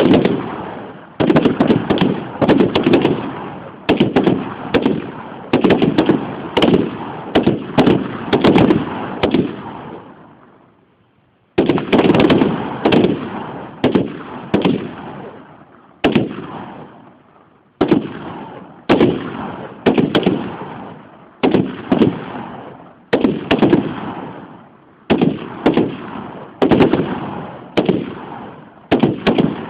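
H&K G3 7.62 mm battle rifles firing, a long string of loud shots, often one or two a second and sometimes overlapping, each with a long echoing tail. The shooting breaks off briefly about ten seconds in, then starts again.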